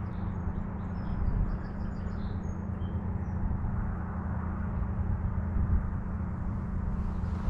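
A steady low rumble, with a few faint, short bird chirps in the first three seconds.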